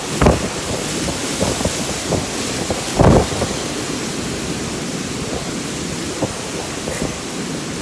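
Summer thunderstorm: rain and wind make a steady hiss, broken by two brief low booms, one just after the start and a louder one about three seconds in.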